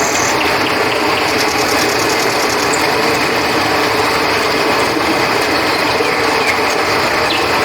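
Steady rush of flowing river water with crickets chirping, and a fast, pulsing high insect trill between about one and three seconds in.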